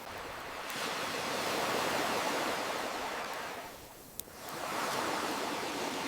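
Ocean waves washing in, swelling and ebbing, quietest about four seconds in. A single sharp crackle from a wood campfire comes at that low point.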